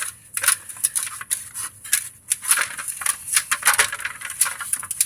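Metal brake caliper being scrubbed by hand with a rag and bar soap: quick, irregular rubbing and scraping strokes with light clicks.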